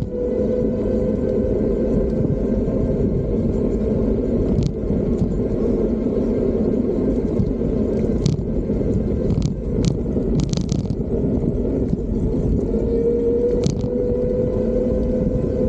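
Fiido D3 Pro electric bike riding along: a steady whine from the motor that rises slightly in pitch twice, over a loud rumble of tyres and wind. A few short clicks or rattles break in here and there.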